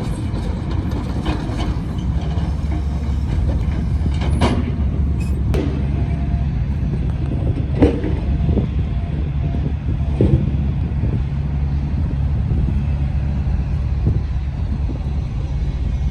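Tram running on street track: a steady low rumble with a few sharp clacks and short high squeals from the wheels on the rails.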